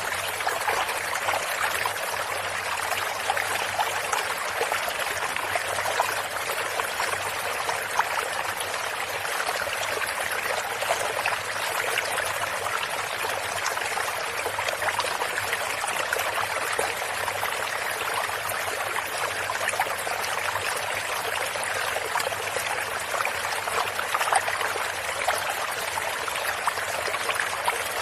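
Stream of running water babbling and trickling over stones, a steady continuous splashing with no pauses.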